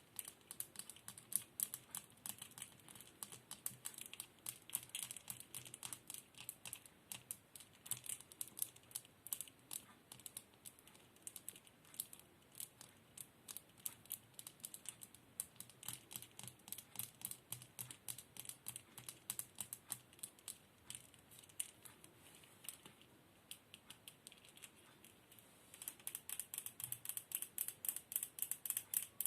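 Rapid, light taps and clicks made by hand as an ASMR trigger. The taps come irregularly at first, then turn louder and more even for the last few seconds.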